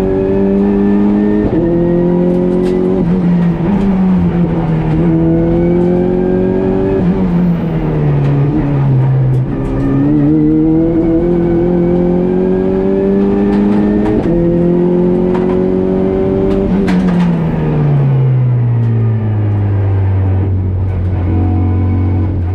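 Renault Clio IV RS Cup race car's turbocharged 1.6-litre four-cylinder engine heard from inside the cabin at full throttle. The revs climb and drop back with each quick gear change. About 18 seconds in the revs fall away and settle into a low steady note as the driver lifts off.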